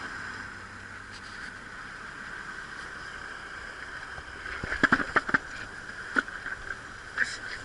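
A fishing ferry's boat engine running steadily, with a cluster of sharp knocks and clatters about halfway through and a couple more single knocks near the end.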